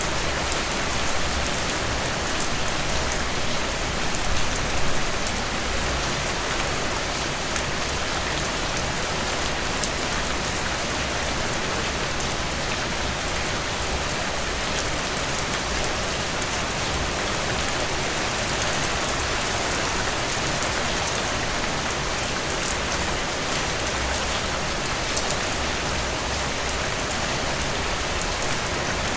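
Steady rainfall: an even hiss of rain with many fine drop patters. No thunder.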